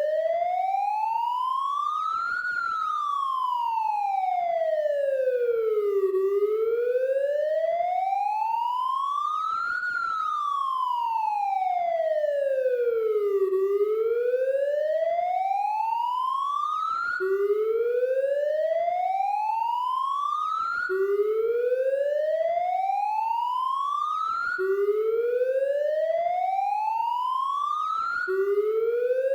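Police siren sound effect: a slow wail rising and falling twice, about seven seconds to each rise and fall, then changing after about seventeen seconds to a rising sweep that snaps back down to the low pitch and starts again, about every four seconds.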